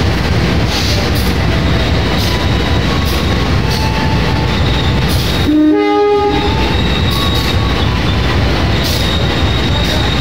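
Passenger train coaches running past along the station track, a steady loud rumble, with one short train horn blast about six seconds in.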